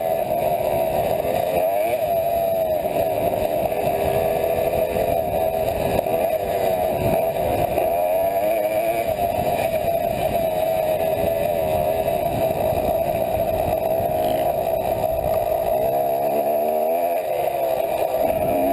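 Yamaha YZ250 two-stroke single-cylinder dirt bike engine running hard under riding load, its pitch wavering up and down with the throttle. The revs drop about sixteen seconds in and climb again near the end.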